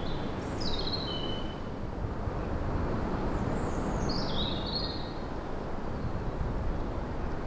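Outdoor ambience: a steady low rumble of background noise, with a small bird singing two short, high phrases that step down in pitch, one near the start and one about halfway through.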